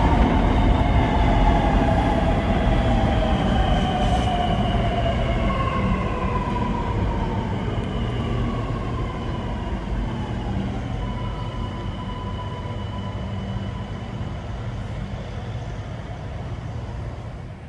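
Sydney Metro Alstom Metropolis driverless train pulling into the platform, its electric motor whine falling in pitch as it slows. The run-in noise fades steadily as it comes to rest.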